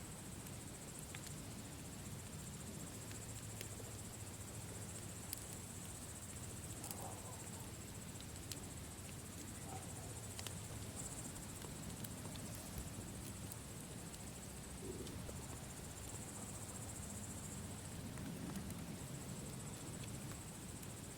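Campfire crackling with scattered sharp pops over a low steady rush, with crickets trilling steadily in the background.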